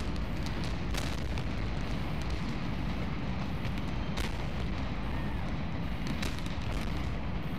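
Stadium demolition implosion: a steady low rumble with a few sharp cracks about one, four and six seconds in.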